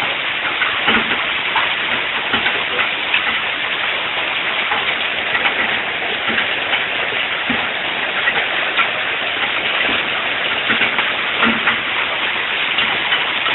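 Heavy hail of quarter- to golf-ball-sized stones pelting the ground, roofs and cars non-stop: a dense, steady clatter of countless small impacts with occasional louder knocks.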